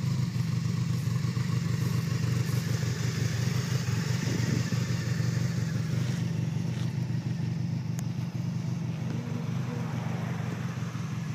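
1988 Honda Super Magna V45's V4 engine idling steadily.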